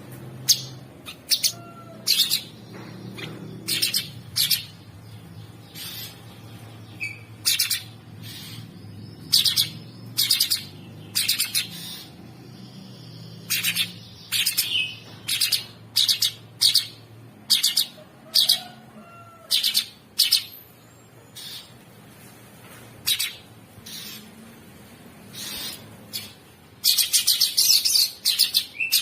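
Cucak sungkok songbird singing in short, rapid, rough chattering bursts about once a second, breaking into a longer dense run near the end.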